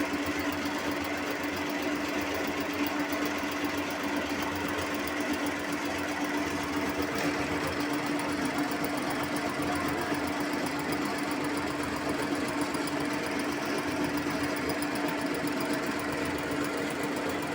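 Sewing machine running steadily, stitching continuously with a steady motor hum and no pauses.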